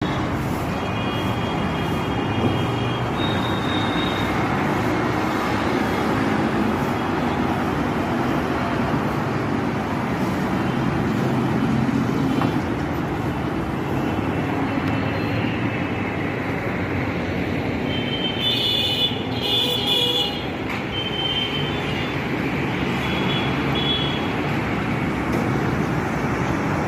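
Steady road traffic noise, with a few short high-pitched tones now and then, the strongest about two-thirds of the way through.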